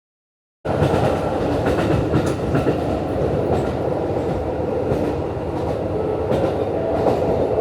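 JR Hokkaido KiHa 150 diesel railcar running along the line, heard from inside the car: a steady rumble of engine and wheels on rail with faint clicks, starting abruptly a little over half a second in.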